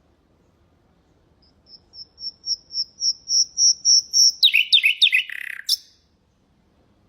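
Nightingale singing one song phrase: a run of about a dozen repeated high whistles, roughly four a second, that swell steadily louder, then a few quick down-slurred notes and a short rasping finish.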